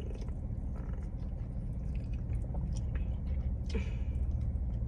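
Chewing and biting into a sauced buffalo chicken wing, with wet mouth smacks and clicks over a steady low hum.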